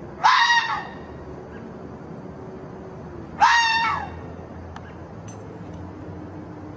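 An animal calls twice, each a short, shrill cry about half a second long, the second about three seconds after the first.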